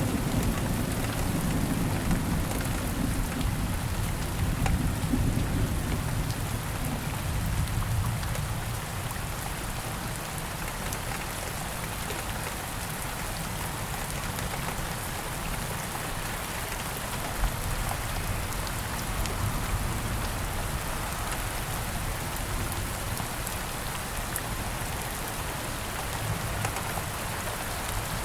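Steady rain falling, an even patter, with a low rumble of thunder dying away over the first several seconds.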